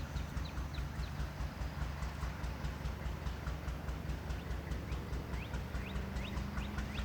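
Diesel locomotive engine running at low throttle, a steady low throb pulsing several times a second, with faint short high chirps over it.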